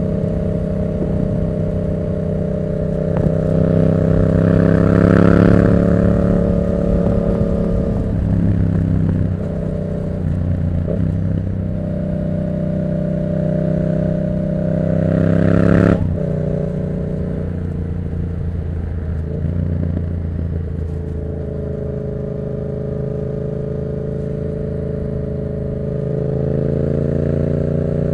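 2024 Yamaha MT-07's parallel-twin engine on the move through a Black Widow exhaust with no dB killer. The revs climb to a loud peak about five seconds in, build again to a second peak around sixteen seconds and drop sharply, then run steadier at lower revs before rising again near the end.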